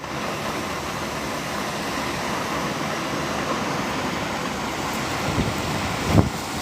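Steady rushing noise of strong storm wind, with one short thump about six seconds in.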